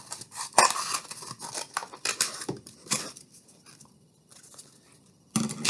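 Scissors cutting through a cardboard paper towel roll: a quick run of snips and crunches that thins out after about three seconds.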